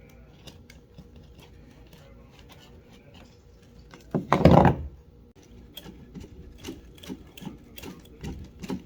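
Irregular small clicks and rubbing from fishing line being pushed by hand into the rudder-line guide of a plastic kayak hull, with one louder knock about halfway through.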